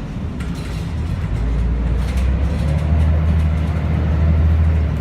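Scania L113CRL city bus's engine running with a steady low drone that builds slightly over the first few seconds.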